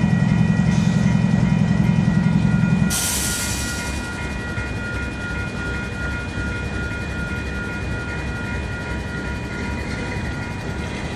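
Level-crossing warning bell ringing repeatedly beside a stopped train. A loud low engine rumble cuts off about three seconds in, followed by a short burst of hiss.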